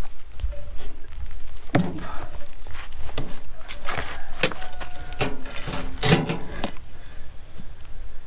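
Irregular knocks and clinks of stone masonry work, stones and tools striking each other, some ringing briefly, over a steady low rumble.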